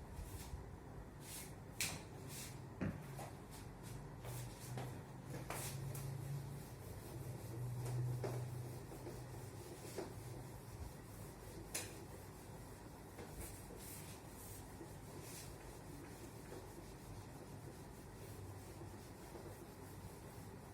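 Faint scratching and rubbing of writing, with scattered light taps and a low hum for a few seconds in the middle.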